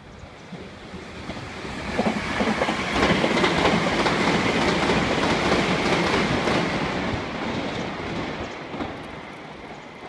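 Meitetsu express train of 3300 and 3150 series stainless electric multiple units passing at speed, its wheels clattering over the rail joints. The sound builds about two seconds in and fades over the last few seconds, with a steady high whine under the clatter.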